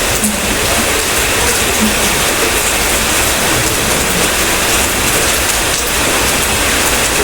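Steady heavy rainfall, an even hiss of rain on surfaces.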